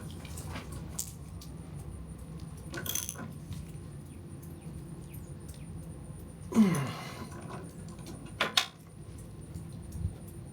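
Small metallic clicks and clinks as a threaded oil drain fitting on an RV generator is worked back in by hand, over a low steady hum. A brief louder sound that falls in pitch comes about six and a half seconds in.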